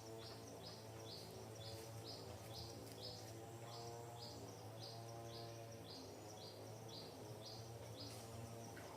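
A bird's short, high, falling chirp repeated evenly about twice a second, over a faint low steady hum.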